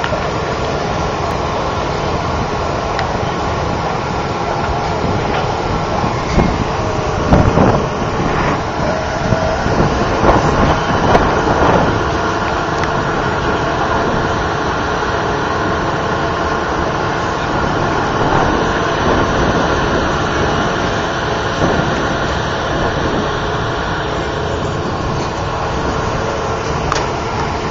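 A steady, loud mechanical rumble, most likely a car engine running at idle, with a few brief louder moments between about seven and twelve seconds in.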